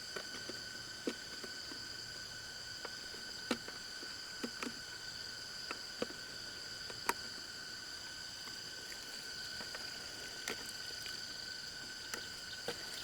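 Steady, high-pitched insect chorus, two unbroken tones held throughout, with a dozen or so sharp, irregular clicks and knocks scattered through it.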